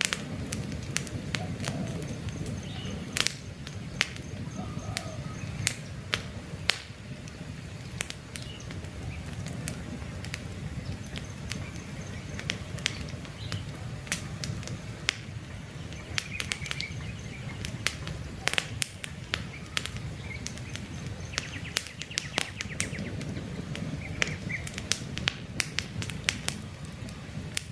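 Campfire burning, with frequent sharp crackles and pops over a steady low rush of flame. Faint bird chirps sound now and then behind it.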